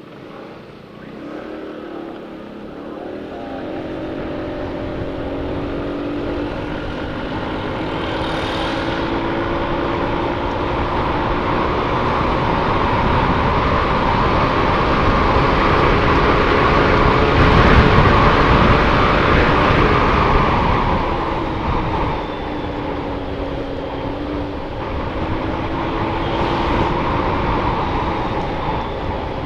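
Motorcycle engine running under way, its note rising as it gathers speed, with wind buffeting the microphone that grows to its loudest about two thirds of the way through and then eases off.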